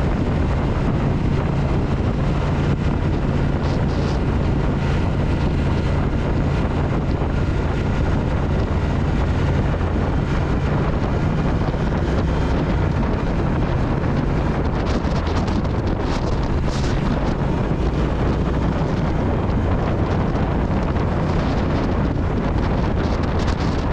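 Triumph Speed Twin's parallel-twin engine running at a steady road speed under heavy wind noise on the microphone.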